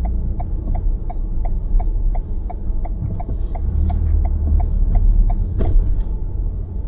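A car's turn-signal indicator ticking evenly at about three ticks a second over a steady low cabin rumble from the road, stopping about five and a half seconds in, with a sharp click just after.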